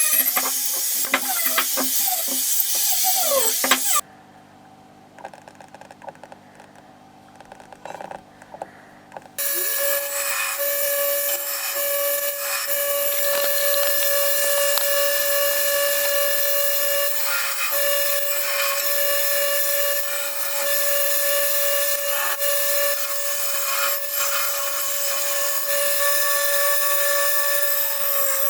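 An electric abrasive power tool running under load: a steady motor whine over a grinding hiss. About four seconds in it drops to a quieter stretch with a low hum, then runs loud and steady again from about nine seconds.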